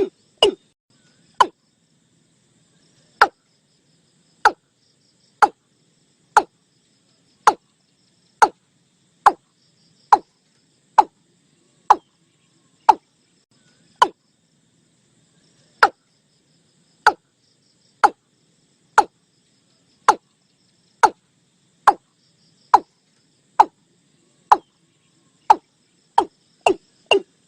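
A series of short, sharp knocking notes, evenly spaced at about one a second, coming quicker at about three a second at the start and again near the end.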